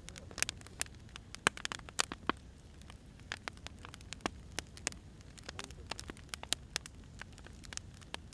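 Burning firewood crackling, with irregular sharp snaps, thickest in the first couple of seconds, over a low steady rumble of the fire.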